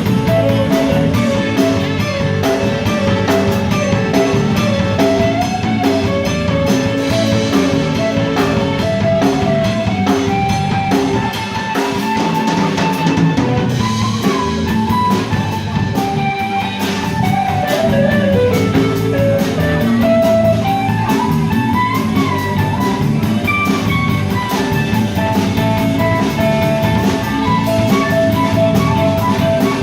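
Instrumental rock music: a lead guitar melody with pitch bends and slides over drums and rhythm guitar.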